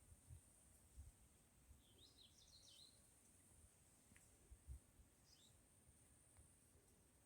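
Faint chirps of small birds: a quick flurry about two seconds in and a couple more near five seconds, over a steady high-pitched hiss and a few soft low thumps.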